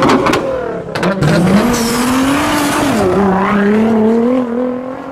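Car engine revving in an intro sound effect: a few sharp clicks in the first second, then the engine note rises, dips about three seconds in and climbs again.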